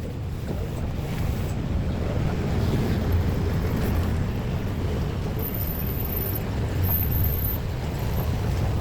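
Steady low rumble of passing heavy vehicles, with no sharp knocks or horn.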